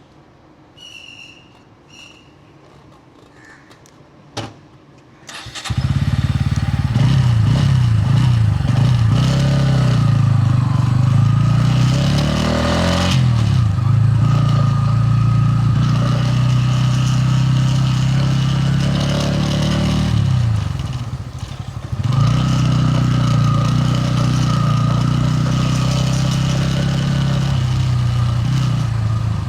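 Bajaj Pulsar N160's single-cylinder engine starting about five seconds in and then running, its revs rising and falling; the sound drops briefly near twenty seconds before picking up again and holding steady.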